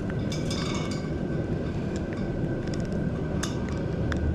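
A few light metallic clicks and clinks from handling motorcycle throttle cables and parts, over a steady low background rumble with a faint constant whine.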